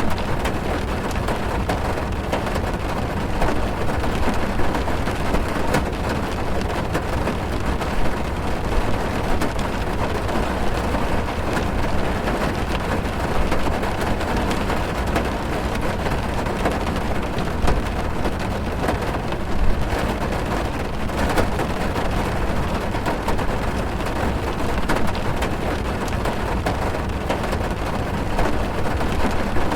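Heavy rain falling on a car, heard from inside the car: a steady, even noise with many separate drop hits on the roof and glass.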